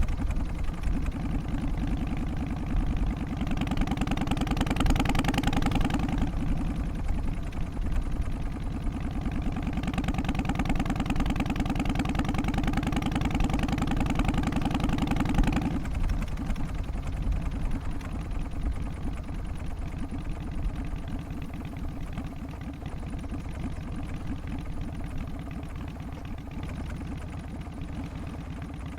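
Harley-Davidson Twin Cam 88 V-twin engine running with its loping beat. It turns brighter and louder for a couple of seconds about four seconds in, and about sixteen seconds in the note turns softer and duller and slowly fades.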